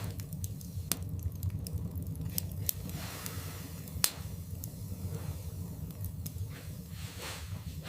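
Wood fire burning in a fireplace, crackling with scattered sharp pops, the loudest about four seconds in, over a steady low rumble.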